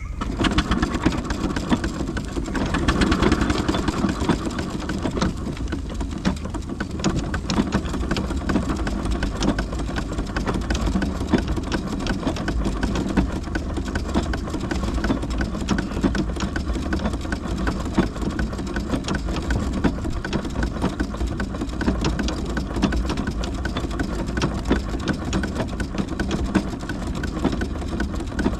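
Large steam engine running on the move, a steady mechanical clatter of rapid clicks over a low rumble.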